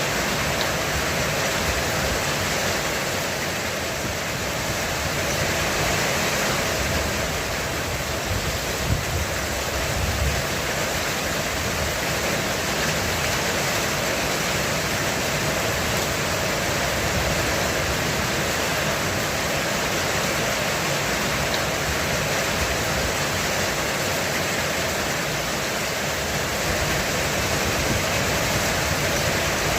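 Heavy rain drumming steadily on a roof, an even, unbroken hiss of rainfall.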